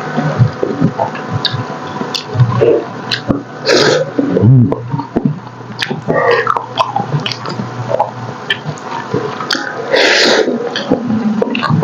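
Close-miked eating: wet chewing and smacking on gelatinous braised pork hock, with many short mouth clicks. Two louder, longer noisy bursts come about four seconds in and near ten seconds.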